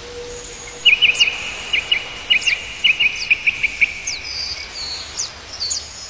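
Small birds chirping: a quick run of short, sharp chirps for about three seconds, with thin, high, down-slurred calls scattered among them over a steady outdoor hiss.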